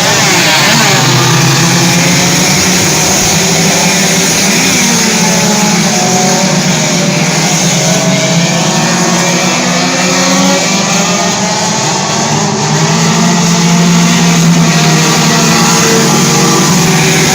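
Several race car engines running together at speed, loud and continuous, their pitches rising and falling as the cars lap.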